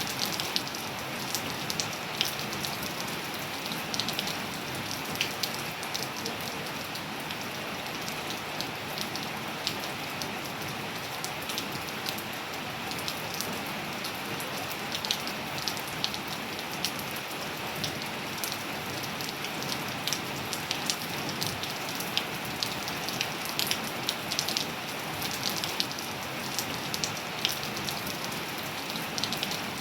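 Steady rain falling, with many close drops ticking sharply on hard surfaces over the even hiss of the downpour.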